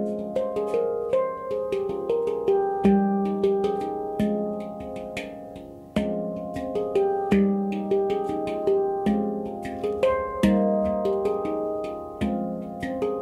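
Handpan in F minor played by hand: struck notes ring and overlap in a flowing pattern, with quick light taps between them. The sound dies away until a strong strike opens a new phrase at about six seconds.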